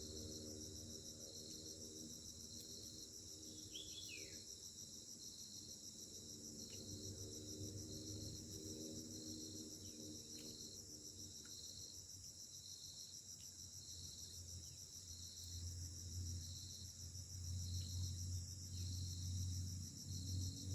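Night insect chorus: crickets trilling steadily, one call pulsing a little faster than once a second, with a few short falling chirps. Under it runs a low steady drone, the machinery of a palm oil mill far off.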